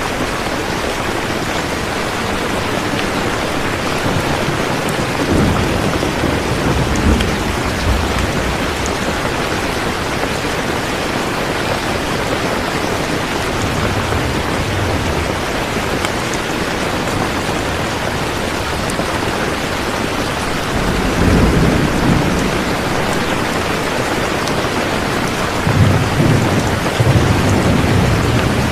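Steady heavy rain with low rolls of thunder rumbling up several times, loudest near the end.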